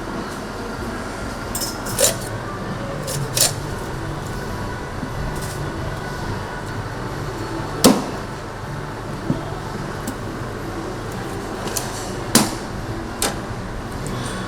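A handful of sharp, separate knocks and clinks, irregularly spaced, over a steady low hum.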